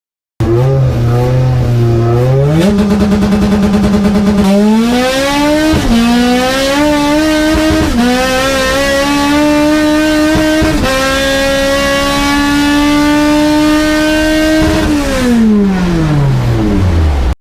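Car engine accelerating hard through the gears. It starts low, climbs in pitch and drops back sharply at three gear shifts, holds a steady high pitch, then winds down before cutting off abruptly.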